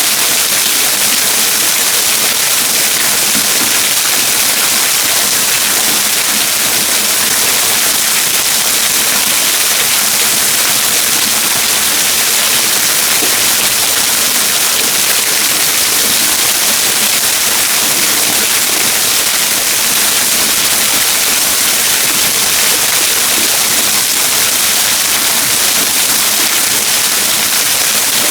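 Waterfall: a steady, unbroken rush of falling water, loud and hissy, unchanging throughout.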